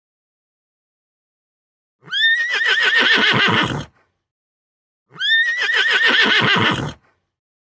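A horse whinnying twice: two matching calls of about two seconds each, the pitch rising sharply, then quavering before it falls away.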